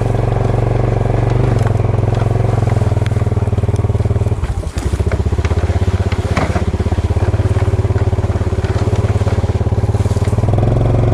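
Motorcycle engine running steadily under way, its note dropping briefly about four and a half seconds in before picking up again, with scattered crackling clicks over it.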